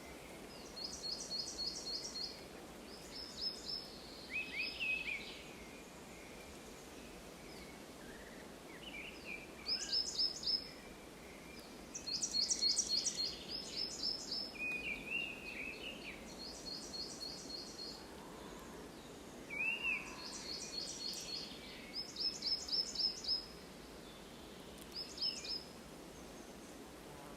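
Songbirds singing in woodland: one bird repeats a short, fast, high-pitched trill phrase every couple of seconds, while another gives lower, scattered chirps, over a steady low background hiss.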